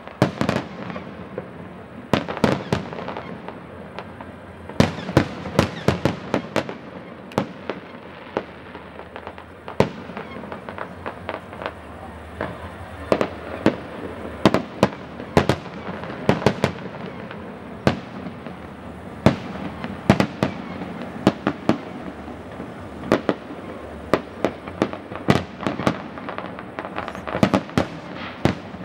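Aerial fireworks display: shells bursting in a rapid, irregular barrage of bangs, several a second at its densest, over a continuous din.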